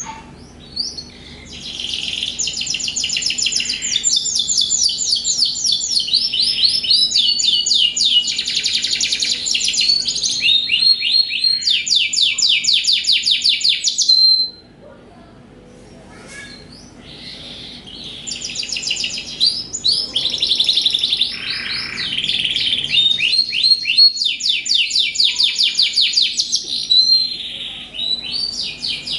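Domestic canaries singing back and forth in long rolling songs of rapid trills, fast repeated notes high in pitch. The singing breaks off for about two seconds halfway through, then starts up again.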